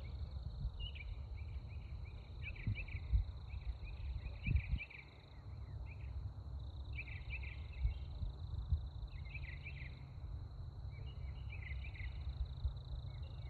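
Night insects: a steady high trill, with bursts of chirping every second or two. Under them is a low rumble with a few dull thumps.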